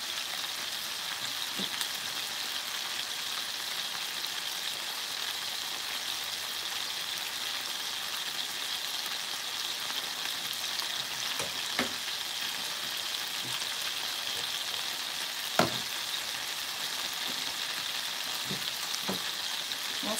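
Chicken thighs frying in a soy sauce and sake liquid in a frying pan: a steady sizzle as the sauce reduces and the meat starts to brown. A few light clicks sound over it, the sharpest about three-quarters of the way through.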